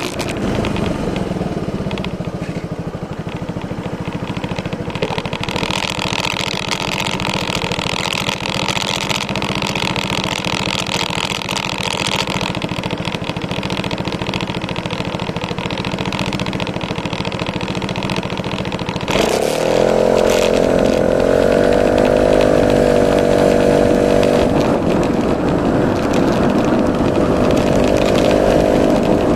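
Yamaha Majesty S 155 scooter's single-cylinder four-stroke engine running steadily at low revs. About two-thirds of the way through, the revs rise and the engine is held there, running louder.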